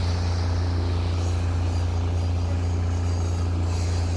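Diesel railcar engine running with a steady low drone, heard from inside the moving carriage.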